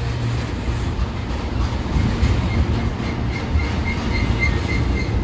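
Union Pacific freight train's cars rolling slowly past as the train slows to a stop, a steady low rumble with wheels clacking over the rail joints. From about two seconds in, a faint high squeal comes and goes from the wheels.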